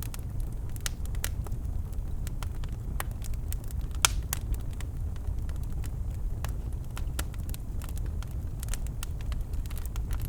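Birch wood fire crackling in a fireplace: irregular sharp pops and snaps over a steady low rumble of the flames, with one louder pop about four seconds in.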